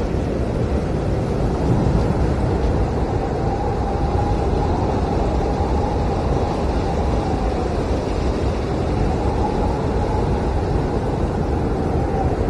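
Blizzard wind blowing steadily, with a howling whistle that swells and fades twice.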